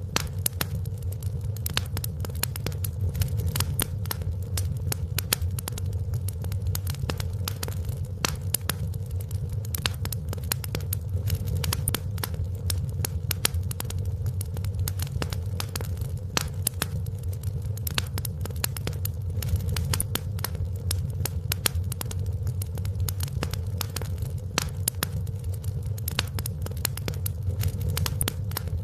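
Wood fire crackling in a fireplace: many quick, sharp pops and snaps over a steady low rumble of the flames.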